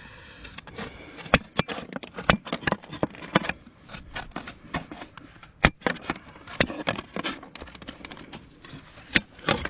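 Irregular sharp taps and clicks, several a second with a few louder knocks, from hand work on fibre-cement roof slates.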